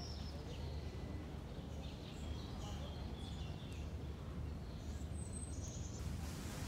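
Small birds chirping in short, scattered calls over a steady low rumble of outdoor background noise. About six seconds in, it changes to an even hiss.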